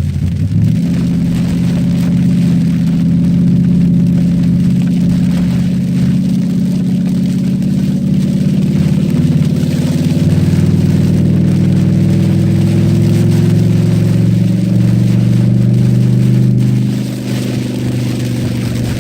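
Cadillac STS-V's supercharged V8 pulling under load on a racetrack, its note slowly climbing in pitch. It eases off with a brief dip about 17 seconds in before pulling again.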